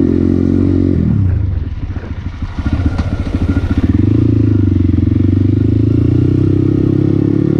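Motorcycle engine running on the move: its note drops about a second in, eases off briefly, then builds back up and holds steady.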